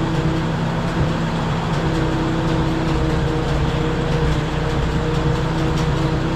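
Engine of a Case 310 crawler dozer running steadily with a low, even hum.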